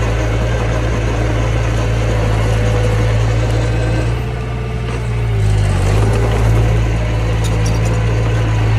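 Mini bulldozer's diesel engine running steadily under work. It eases off about four seconds in, then shifts pitch and picks up again a second or so later.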